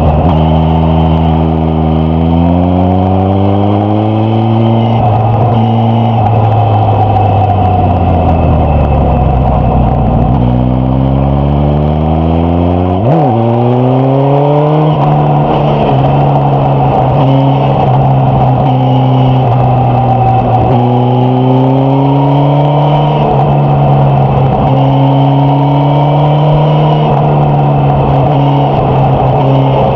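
Suzuki GSX-S1000F's inline-four engine and exhaust under riding load. The pitch climbs as it accelerates, then falls for several seconds as the throttle is closed. About halfway through it revs up sharply, then runs on fairly steadily with small rises and dips.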